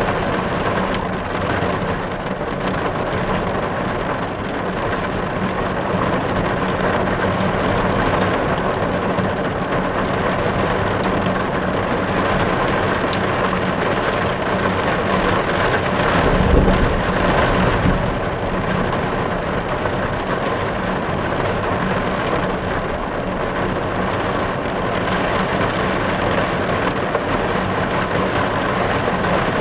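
Steady rain drumming on a car's roof and windows, heard from inside the car. A low rumble swells briefly a little past halfway.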